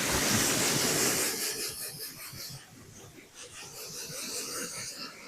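Water spraying onto a pickup truck's body to rinse off the wash soap: a steady hiss of spray, loudest in the first couple of seconds, then softer and uneven as the spray moves over the panels.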